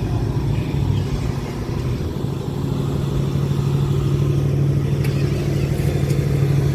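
Car engine running at a steady idle close by: a low rumble that settles into an even hum about two seconds in.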